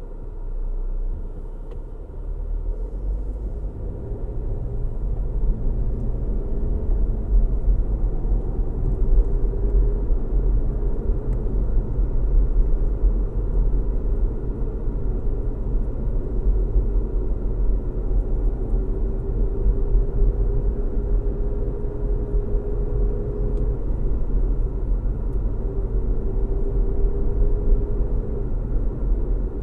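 Car driving on a road: a steady low rumble of tyres and engine that builds over the first few seconds and then holds, with a faint engine hum that drifts gently in pitch.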